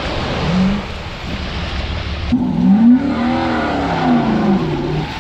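Diesel pickup engine revving up and down several times under load while crawling off-road, after a couple of seconds of wind rushing on the microphone.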